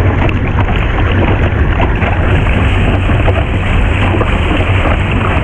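Rushing whitewater of a river rapid, loud and steady, with wind buffeting the microphone.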